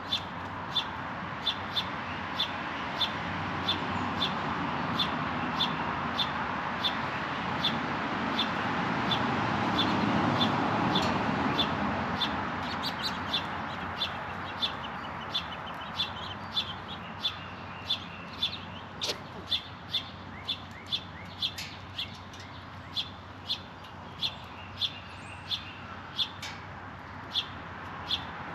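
A bird at a feeder repeating a short, high chirp, about one to two a second, over a steady rushing background that swells about ten seconds in and then eases off.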